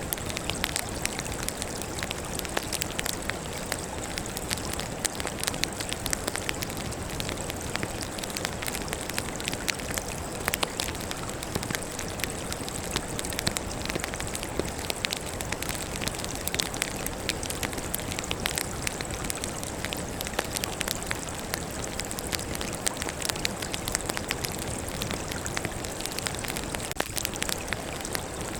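Wood fire burning with a steady hiss and dense, irregular crackling and popping of the logs.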